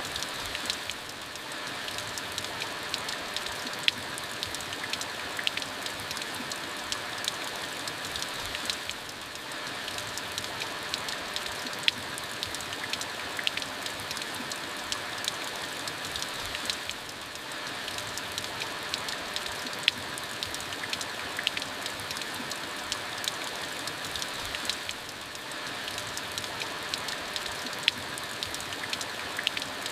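Steady rain falling, with many sharp drop ticks standing out from the even hiss; the sound dips briefly about every eight seconds.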